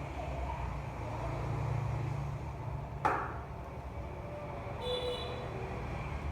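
A steady low engine hum, strongest between about one and two and a half seconds in. A sharp knock comes about three seconds in, and a short high-pitched tone about five seconds in.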